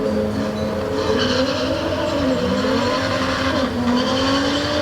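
Drag-racing cars' engines under hard acceleration, the engine note climbing steadily and dropping back briefly a couple of times as gears change, over a hiss of tire and wind noise.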